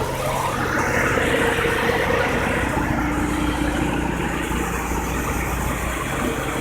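Mitsubishi 3000GT's V6 engine idling steadily after a rev has died away.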